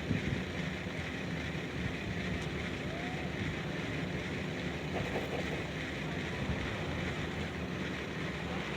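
Steady ambient background noise: a low rumble under an even hiss, with a faint short rising tone about three seconds in.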